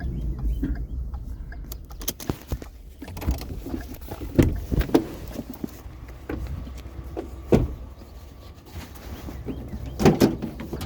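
A vehicle engine rumbling low, fading after about two seconds, then a run of scattered knocks and clunks, loudest about four and a half, seven and a half and ten seconds in.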